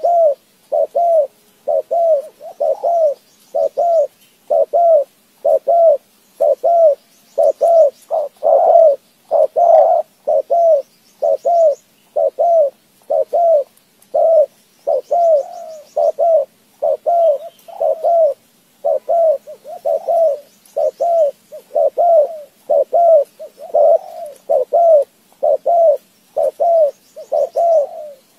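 A bird calling over and over in short notes, about one and a half a second and many of them in pairs, with faint high chirps of other birds behind.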